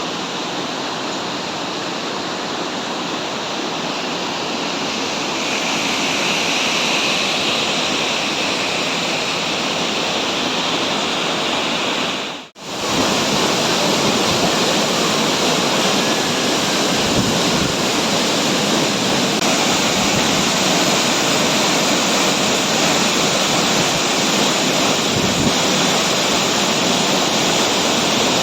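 Mountain waterfall rushing steadily, close by. The sound drops out briefly about halfway through, then comes back a little louder.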